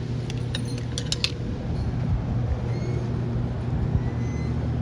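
Steady low mechanical hum with a few light clicks about a second in.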